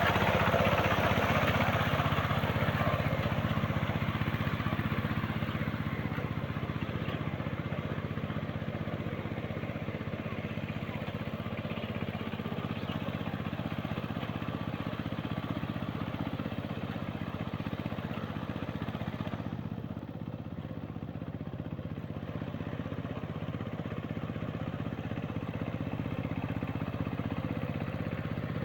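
Walking tractor (power tiller) engine running steadily, a little louder for the first few seconds.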